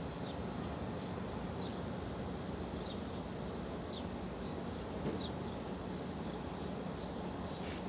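Caged lovebirds chirping: a run of short, high, downward-sliding chirps, one or two a second, over a steady background hum. A brief sharp scratchy sound comes near the end.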